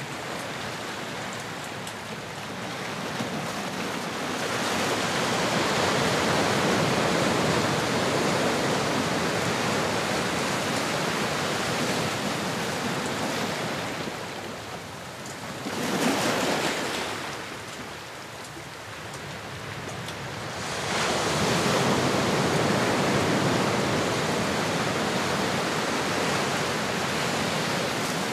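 Ocean surf: waves washing in and out in slow swells, with one sharper wave breaking about sixteen seconds in.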